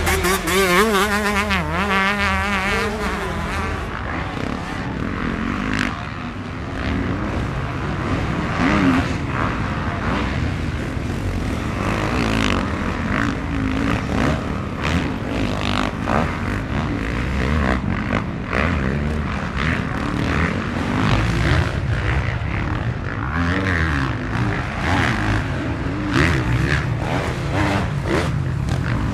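Motocross bikes running on the track, engines revving up and down as they pass, the pitch rising and falling sharply in the first few seconds.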